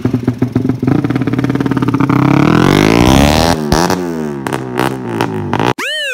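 Motorcycle engine through an aftermarket DOS exhaust revving: the pitch climbs for a second or two, then drops, followed by several short blips of the throttle. It cuts off suddenly near the end and gives way to a warbling electronic sound effect.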